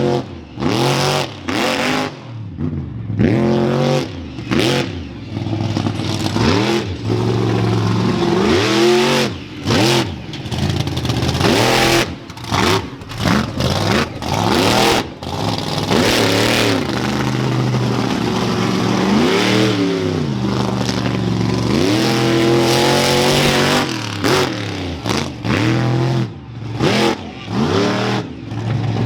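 Monster truck engine revving hard again and again, its pitch climbing and falling with each burst of throttle. The revs are broken by many short drops and sharp cracks.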